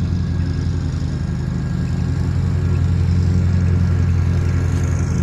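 An engine running steadily at a low idle, a constant low hum with a fast even pulse.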